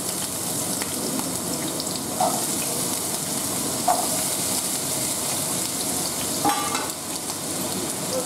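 Raw potato cubes sizzling steadily in hot mustard oil in a non-stick kadai, with a few short knocks as more cubes go into the pan.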